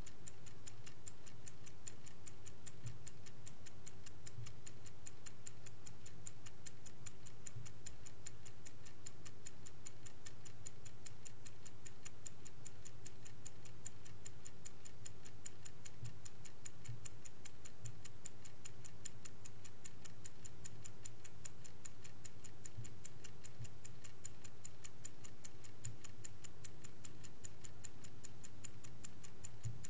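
Vintage Swiss-made Angelus mechanical clock ticking at a steady, even rate, over a faint low hum.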